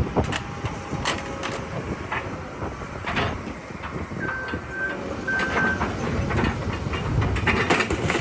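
Heavy machinery crushing scrap cars: metal crunching with irregular sharp clanks over a running diesel engine. Two short high beeps come about a second apart midway through.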